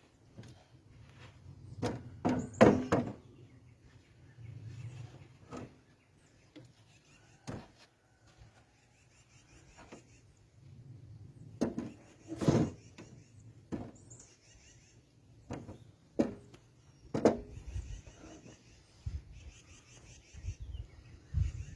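Workshop handling noises: irregular knocks and clunks of wood and tools being moved and set down. The loudest clusters come about two seconds in, around twelve seconds in, and near seventeen seconds, with softer rustling between them.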